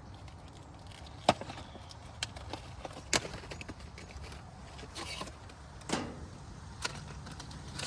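A handful of sharp clicks and knocks of tools and new spark plugs being handled, the loudest about a second in and another about three seconds in, over a low steady hum.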